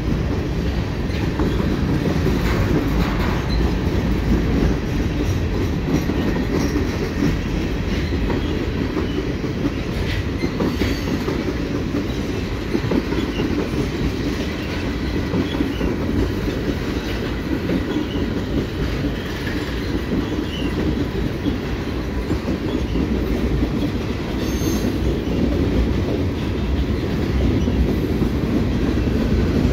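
Freight cars of a passing freight train rolling by close to the track: steady noise of steel wheels on rail, with clatter over the rail joints.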